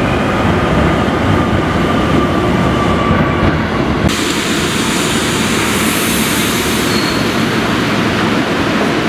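Keio Electric Railway local electric train running along the line, a steady rumble with faint thin squeals from the wheels; about four seconds in the sound turns brighter and hissier.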